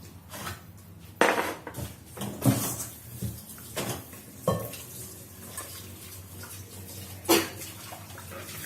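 Dishes and cutlery clattering as they are handled, with several sharp knocks spread over a few seconds.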